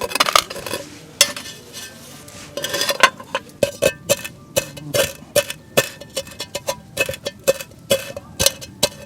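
Pestle working roasted dandelion root pieces in a mortar: a scraping grind, then sharp knocks about twice a second from a few seconds in.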